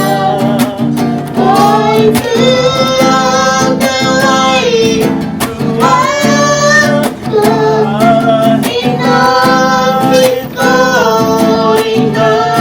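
Female voices singing a slow song with long held notes, accompanied by an acoustic guitar.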